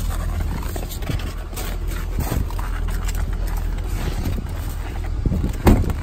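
Volkswagen GTI engine idling steadily just after a cold start in about −28 °C cold, with irregular light clicks over the drone and a single louder thump near the end.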